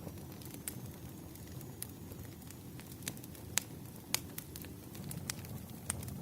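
Campfire burning, a steady low rumble of flame with irregular sharp crackles and pops of burning wood.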